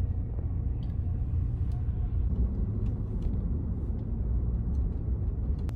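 Steady low rumble of a car heard from inside the cabin while driving.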